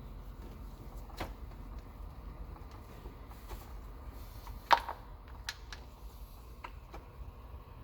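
Scattered light clicks and taps of small engine parts and tools being handled, with one sharper click about three-quarters of a second before the five-second mark. A faint low hum lies underneath.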